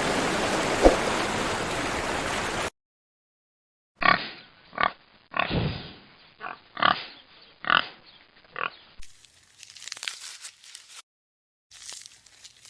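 Several separate clips cut together. First a loud steady rushing noise stops suddenly. After a short silence come about eight short pig grunts spread over five seconds, then fainter scraping noise.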